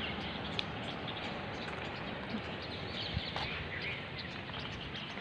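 Small birds chirping now and then over a steady outdoor hiss.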